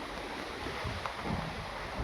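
Wind buffeting the microphone, with irregular low rumbling gusts over a steady outdoor hiss.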